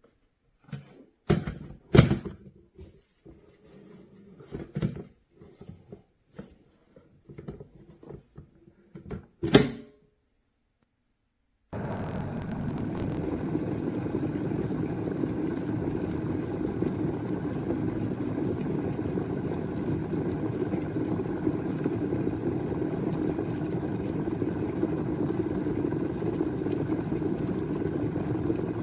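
Electric kettle being handled, with several knocks and clicks over the first ten seconds, the sharpest about two seconds in and just before ten. After a short silence, a steady low rumble starts suddenly about twelve seconds in: the stainless-steel kettle heating its water.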